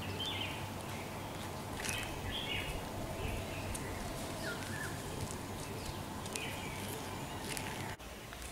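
Birds chirping in scattered short calls over a steady outdoor background, with a few faint clicks.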